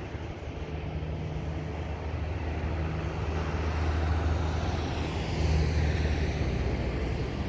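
Airbus A321neo jet engines running at high power, a deep rumble that grows louder to a peak about two-thirds of the way in, with a faint high whine sliding down in pitch midway.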